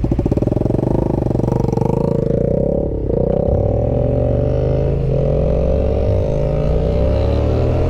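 Yamaha Ténéré 700's parallel-twin engine pulling under load. The revs climb, drop sharply at an upshift about three seconds in, and then climb steadily again.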